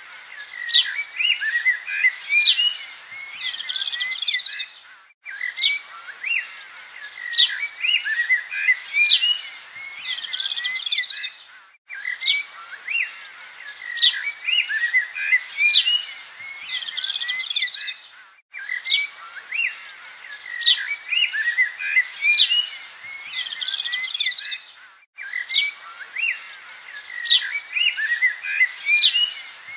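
Birdsong: several birds chirping and whistling. The same short recording plays on a loop, starting over about every six and a half seconds after a brief gap.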